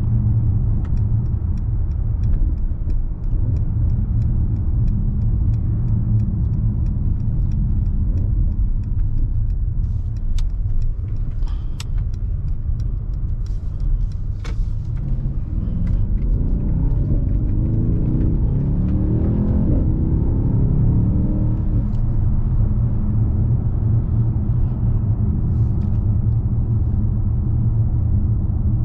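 Mercedes-AMG S63's 4.0-litre twin-turbo V8 running while driving, a steady low exhaust rumble. Between about sixteen and twenty-two seconds in, the engine note climbs as the car accelerates, then settles back.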